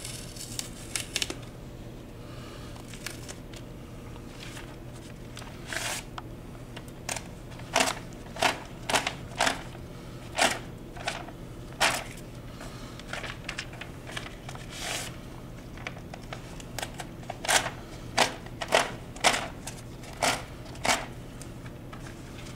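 Masking tape and paper being peeled off a curling rock's running surface: a long series of short, irregular ripping and crinkling noises over a steady low hum.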